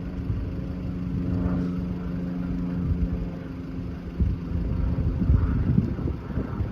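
Steady low hum of a running engine, with low rumbling gusts of wind on the microphone that grow stronger in the second half.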